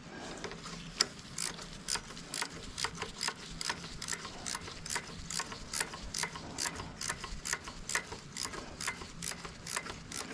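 Ratchet wrench being worked in steady strokes, its pawl clicking about two to three times a second.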